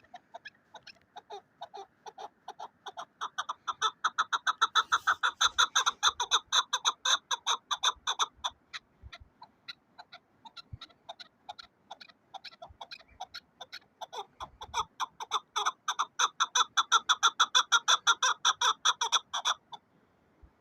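Chukar partridge calling: a rapid run of repeated clucking notes, about five a second, in two long bouts that grow louder, with scattered notes between, stopping suddenly near the end.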